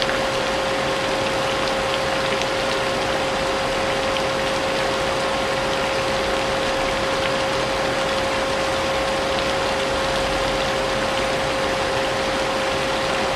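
Vacuum cleaner running steadily, its motor giving a constant pitched hum over a wide rushing noise, mixed with falling rain.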